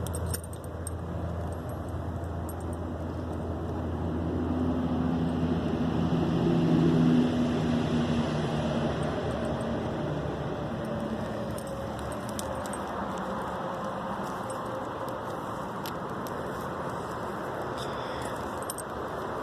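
A motor vehicle's engine passing by, growing louder to about seven seconds in and then fading away, over a steady background hiss.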